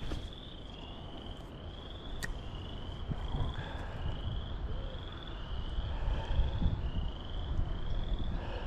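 Wind rumbling on the microphone, with gusts growing stronger in the second half. Behind it, an animal repeats a short high-pitched call about twice a second, the notes alternating slightly in pitch.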